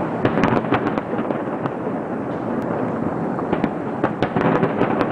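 Fireworks display: a continuous rumble of bursting shells with many sharp crackling pops through it, thickest in the first second and again about three and a half to four and a half seconds in.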